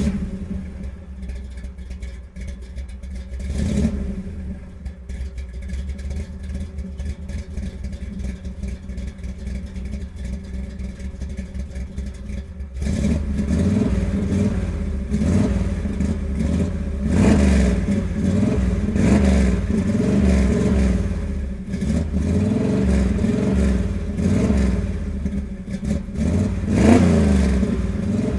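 Car engine idling steadily, with a brief rise about four seconds in. About halfway through it is revved again and again, the pitch climbing and falling with each rev, the sharpest rev near the end.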